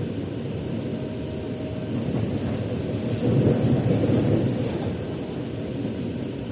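Metro train running, heard from inside the carriage: a steady rumble of wheels and running gear that swells for a second or so about three seconds in.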